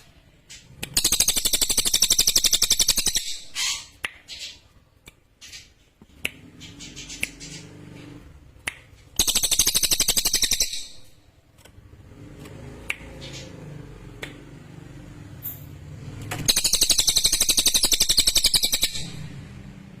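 Cililin songbird singing: three loud, high, very fast rattling trills of about two seconds each, near the start, in the middle and near the end, with short scattered chirps between them.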